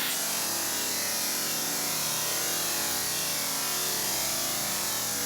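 Waterfall: the steady rush of falling water, an even hiss that holds at one level throughout.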